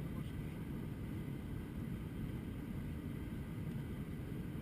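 Steady low rumble of an Airbus A321-200 airliner's cabin, the engines and airflow heard from inside the passenger cabin.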